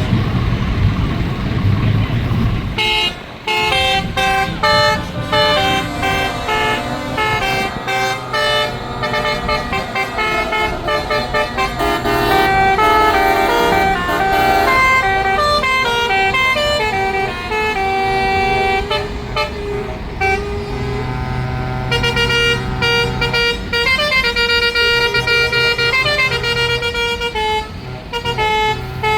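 Truck air horns blowing repeatedly, several pitched horns stepping from note to note in quick succession like a tune, over a low diesel engine rumble that is loudest for the first few seconds.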